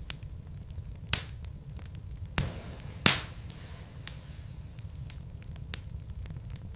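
Wood fire crackling in a fireplace: a steady low rumble with scattered sharp pops and snaps, three louder pops about one, two and a half and three seconds in.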